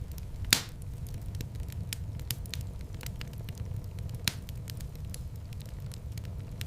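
Wood fire crackling over a low, steady rumble of flame, with scattered small snaps and a sharper pop about half a second in and again about four seconds in.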